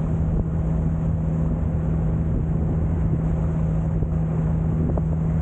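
Sightseeing boat's engine running steadily, a constant low hum.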